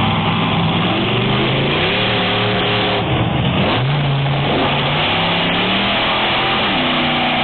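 Methanol-burning monster truck engine revving hard, its pitch climbing and falling several times. About three and a half seconds in it drops sharply, then climbs again.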